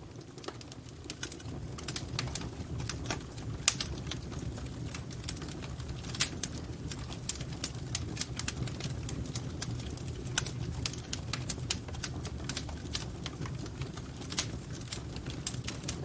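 Wood fire crackling: irregular sharp pops and snaps, one louder pop a few seconds in, over a steady low rumble of flames.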